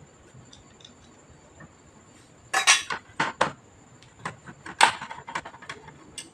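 Small hard parts and tools clinking and clattering on a hard surface during computer disassembly, in two short flurries about two seconds apart.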